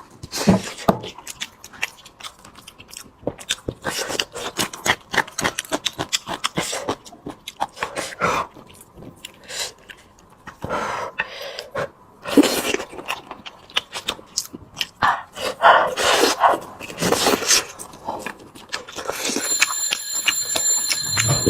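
Close-up eating sounds of braised pork being chewed: a dense run of wet smacks and clicks with short pauses.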